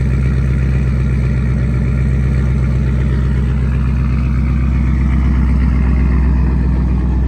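2014 Mustang GT's 5.0-litre V8 idling steadily shortly after a cold start.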